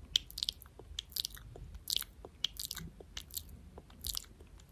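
Close-miked ASMR hand sounds: irregular soft crackles and clicks, several a second.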